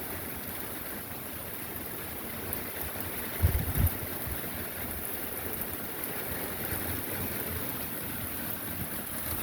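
Heavy rain falling in a steady hiss, with a brief low thump about three and a half seconds in.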